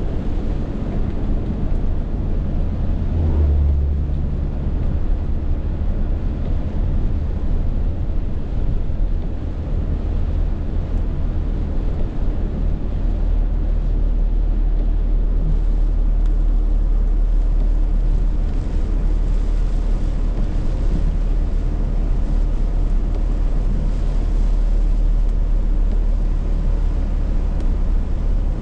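Rainstorm wind buffeting the microphone: a loud, steady low rumble with a constant hiss above it.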